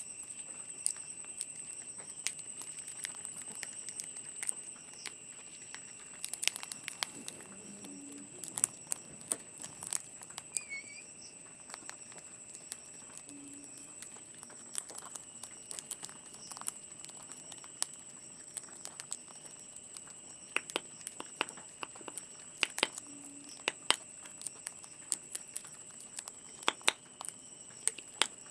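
Parrot cracking sunflower seeds in its beak: irregular sharp clicks and cracks as the husks split.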